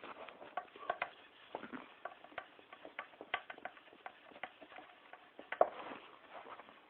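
Hands working on a soot-blackened pot: irregular light clicks and taps, several a second, with short rubbing sounds, the loudest knock about five and a half seconds in.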